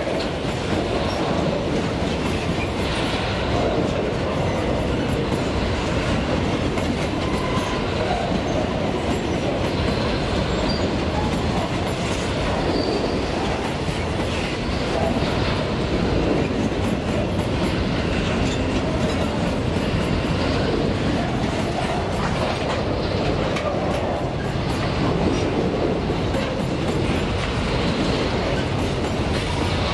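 Freight train of grain hopper wagons rolling past close by: a steady rumble with the clickety-clack of the wheels over the rail joints.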